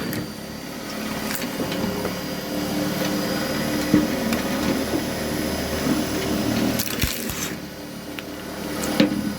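Homemade cone log splitter driven by a 500 W washing-machine motor, running with a steady hum while wood is split, with a few sharp cracks about four, seven and nine seconds in.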